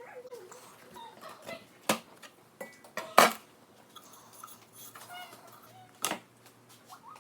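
Light knocks and clinks of objects being handled, three of them sharper, with faint short squeaks in between.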